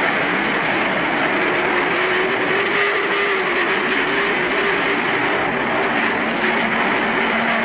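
A loud, steady rushing roar with a faint wavering hum running through it. There are no separate blasts or bangs.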